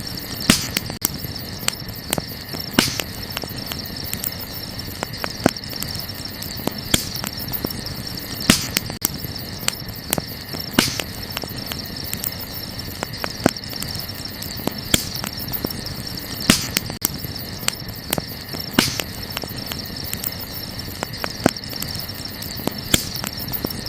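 Wood campfire crackling, with irregular sharp pops every second or so, over a steady high chirring of crickets.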